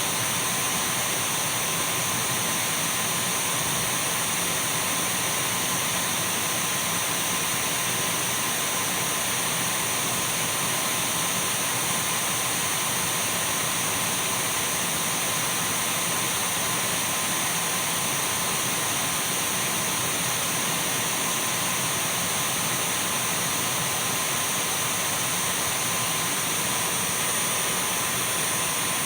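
Dyson V12 cordless stick vacuum cleaner running steadily: an even rushing of air with thin, unwavering high whines over it.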